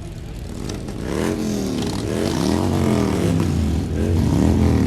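A vehicle engine being revved several times, its pitch rising and falling over and over and growing louder from about a second in.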